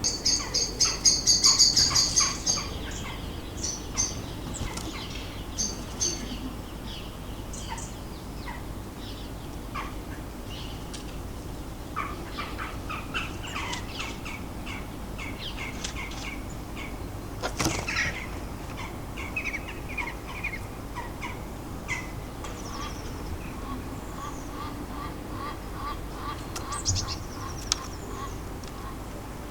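Small garden songbirds calling and singing, with a fast run of loud, high-pitched notes during the first two seconds and scattered chirps and short phrases after it. A single sharp tap sounds a little past the middle.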